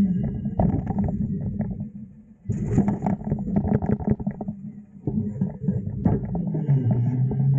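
Autocar/Heil garbage truck dumping a large bin: the engine runs under hydraulic load while the metal bin and falling trash bang and clatter repeatedly. There is a brief lull about two seconds in, and near the end the engine settles to a lower, steady note.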